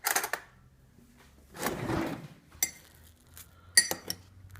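A metal utensil clinking against a glass jar: soft handling and scraping noise, then a handful of sharp ringing clinks in the second half, the loudest about four seconds in.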